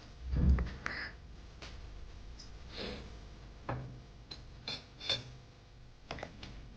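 Quiet sounds of a toddler eating: soft breathing and sniffing, with small clicks and taps scattered through and a dull low thump about half a second in.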